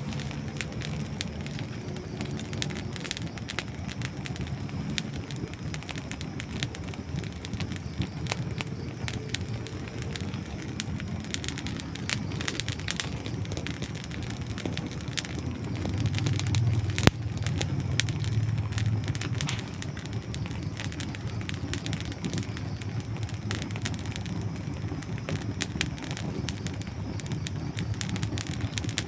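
Campfire of dry wood burning with constant crackling and snapping over a low rumble of flame. The rumble swells about 16 seconds in, and one sharp, loud pop comes about a second later.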